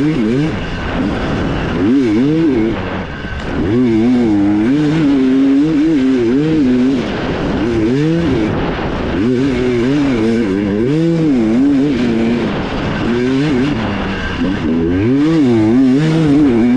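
Dirt bike engine revving hard, its pitch rising and falling over and over as the throttle is opened and closed through gears on a trail.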